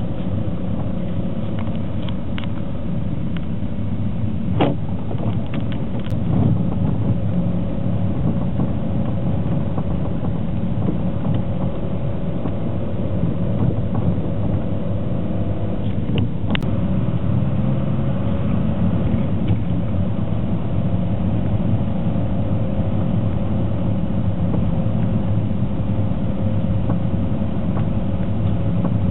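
A motor vehicle's engine running steadily at a held pitch, with a few sharp clicks.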